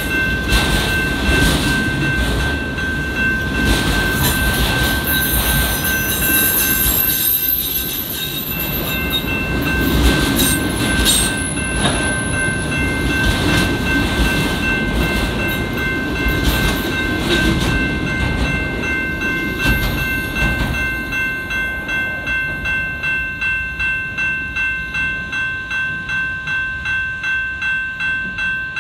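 Freight train of autorack cars rolling past over a grade crossing: a low rumble of wheels with clanks and rattles, while the crossing bell rings steadily. After about twenty seconds the rumble dies away as the last cars pass, and the crossing bell is left ringing alone, about two strikes a second.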